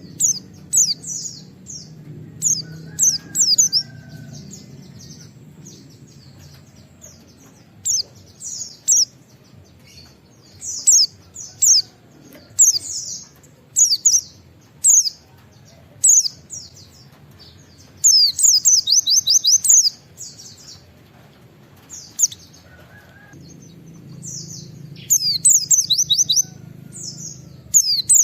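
White-eye (pleci) singing in short bursts of high, sharp chirps and whistles, with a rapid run of quick notes a little after the middle.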